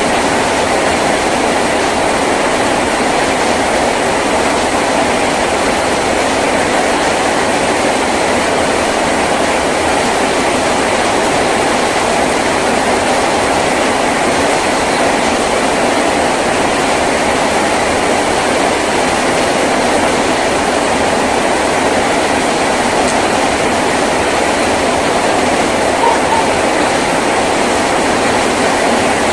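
Heavy rain falling on a tin roof, a steady dense hiss without letup.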